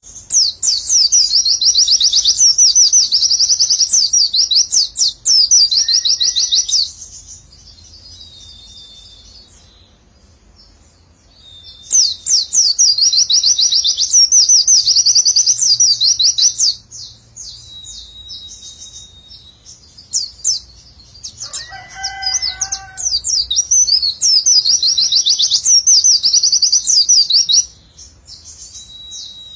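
White-eye (pleci) singing its rapid 'nembak' song: long runs of fast, tight, high-pitched 'wit-wit-wit' notes strung together, three long runs broken by pauses with short thin whistles. A brief lower call sounds once about two-thirds of the way through.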